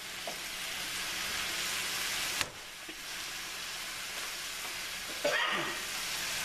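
Sliced pork, bell peppers and onions sizzling steadily in a hot frying pan. A sharp click comes a couple of seconds in, and a short falling squeak about five seconds in.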